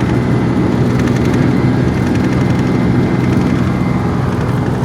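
Truck engine droning steadily at highway speed with road noise, heard from inside the cab.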